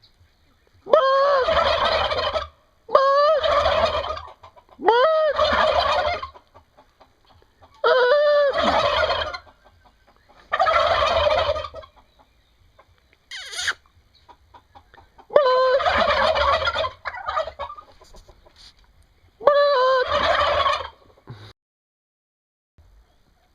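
Turkeys gobbling: seven loud gobbles, each about a second and a half long and a few seconds apart, with one short, higher call about halfway through.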